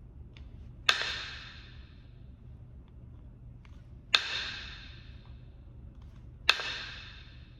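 Three sharp percussion blows on Kentucky hornstone during flintknapping, each with a short ring that dies away over about a second, and a few faint taps between them.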